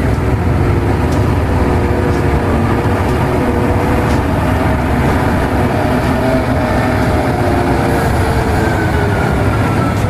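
Caterpillar 785C mining haul trucks driving past one after another, their large diesel engines giving a loud, steady low rumble with a faint whine that slowly drifts in pitch.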